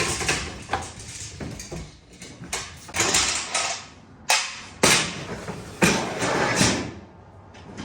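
Knocks, clunks and scraping of a pit bike being handled and loaded into a vehicle: a run of sharp impacts, with rattling, scraping spells between them.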